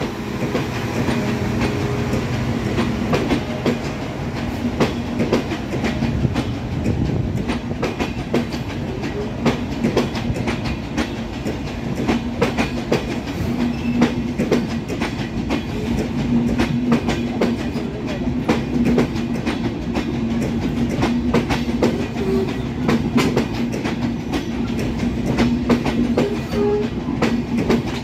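Train of CRRC-built passenger coaches rolling past, its wheels clicking and clattering over the rail joints over a continuous rumble, with a steady hum that comes and goes.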